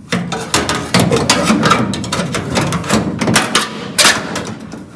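Sheet-metal replacement cross member clanking, knocking and scraping against the car body as it is worked into position, a quick run of metallic knocks with the sharpest about four seconds in.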